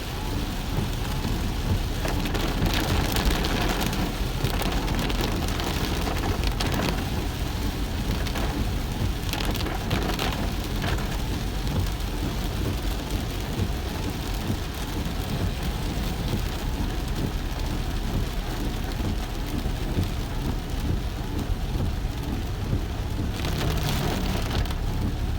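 Rain falling on a car while driving: a steady hiss over a low road rumble, with brief swells of louder hiss a couple of seconds in, around ten seconds, and near the end.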